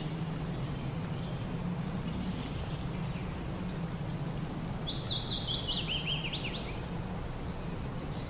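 Small birds chirping in short downward-gliding notes, with a quick run of chirps from about the middle to near the end. A steady low background noise runs underneath.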